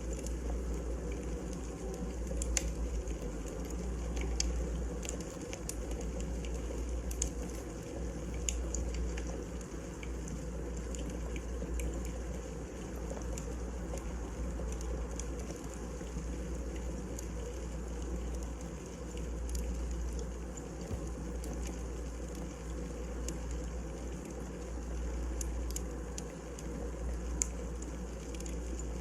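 Firewood burning in a fireplace: a steady low rumble of flame with scattered sharp crackles and pops.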